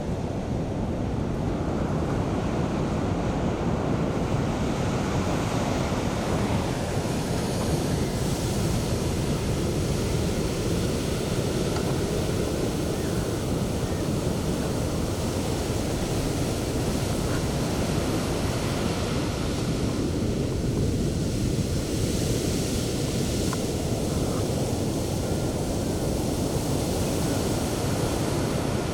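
Sea waves breaking on the shore in a continuous wash of surf, the hiss of foam swelling twice as larger waves break, with some wind noise on the microphone.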